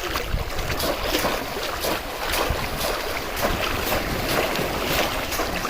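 Water splashing and churning in a continuous wash, with many short sharp splashes, and wind on the microphone.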